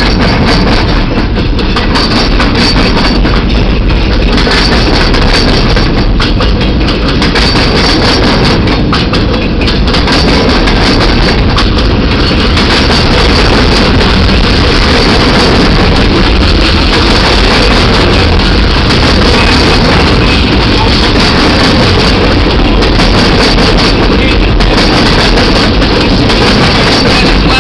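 Pan Am Railways train running by, a loud steady rumble of locomotive engines and wheels on the rails.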